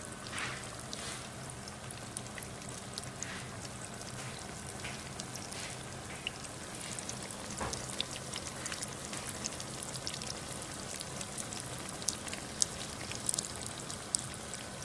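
Flour-battered sweet potato slices frying in a pan of hot oil: a steady sizzle with frequent small pops and crackles, which get busier in the second half.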